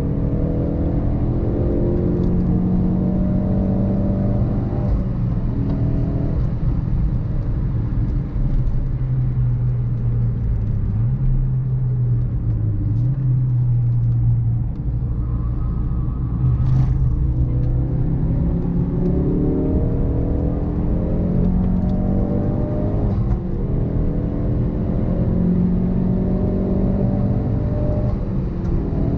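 Mk3 Ford Focus RS's 2.3-litre turbocharged four-cylinder engine being driven hard on a race track. The engine note climbs under acceleration, drops off about five seconds in, runs lower through the middle, and climbs again from about seventeen seconds.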